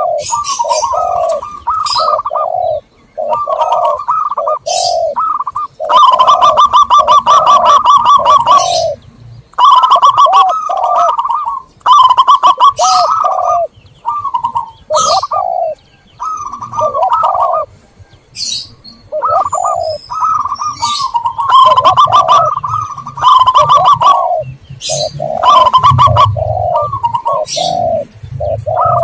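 Zebra doves and spotted doves cooing over and over in short repeated phrases, a recorded lure call for these doves, with sharp high chirps between and over the coos.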